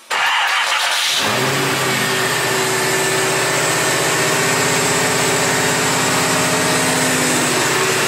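Car engine starting: about a second of cranking, then it catches and settles into a steady idle. It is a test run to see whether the belt still jumps off the harmonic balancer now that the water pump pulley is pushed back into place.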